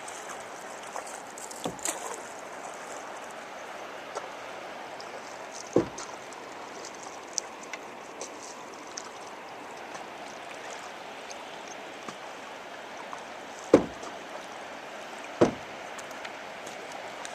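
Steady rush of river water around a canoe being paddled, with four sharp knocks scattered through it, loudest near the end, typical of a paddle striking the canoe's side.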